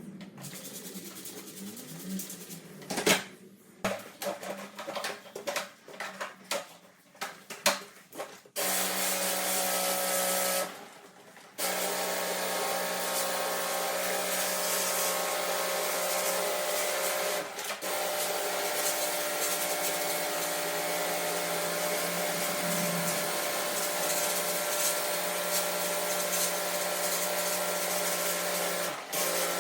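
Several knocks and clicks of handling equipment, then about eight seconds in a small electric motor starts and runs steadily with a hiss, stopping for about a second soon after and starting again. This fits the pressure sprayer used to wash the air-conditioner coils.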